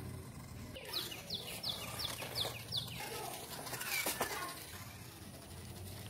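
A bird calling a series of six quick, evenly spaced notes, each falling in pitch, followed about a second later by another gliding call, over a faint steady low hum.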